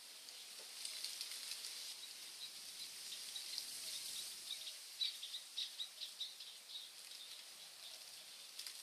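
Forest birds singing faintly: scattered high chirps, then a quick run of them about five seconds in at roughly four notes a second, over a faint steady high hiss.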